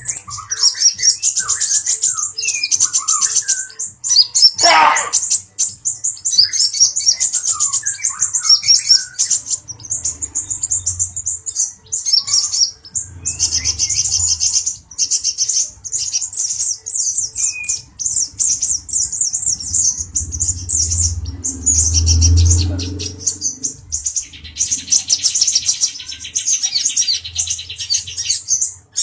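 Male brown-chested kolibri ninja sunbird singing a rapid, high twittering song, with a loud downward-sliding note about five seconds in.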